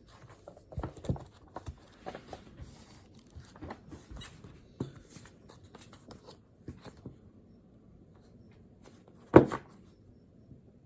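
Desk handling sounds: paper rustling with light taps and clicks from setting down and picking up study things, then quieter, with one louder knock on the desk about nine seconds in.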